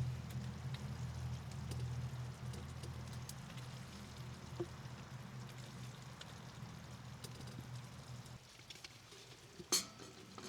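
Food sizzling in a cast iron skillet on a tent wood stove, with scattered small pops and crackles over a steady low rumble that drops away near the end; one sharp, louder click comes just before the end.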